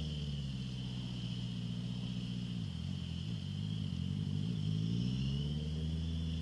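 Honda CBR650F's inline-four engine through an Akrapovic full exhaust: the revs fall away, stay low for a second or so near the middle, then climb again as the bike pulls away.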